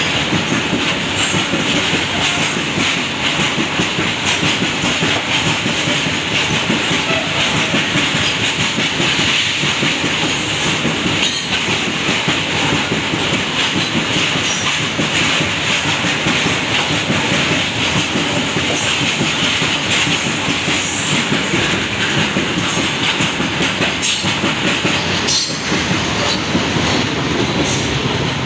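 Loaded coal wagons of a fast goods train running past, a loud steady rolling noise with a dense clatter of wheel clicks and a few sharper knocks.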